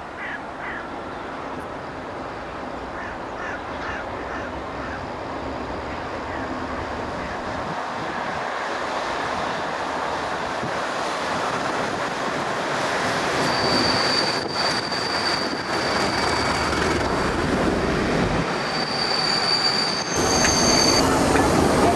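Class 37 diesel locomotive hauling a passenger train on approach, its English Electric V12 growing steadily louder. A high, steady wheel squeal from the curve sets in a little past halfway, and the noise jumps to a heavy rumble near the end as the locomotive and coaches pass underneath.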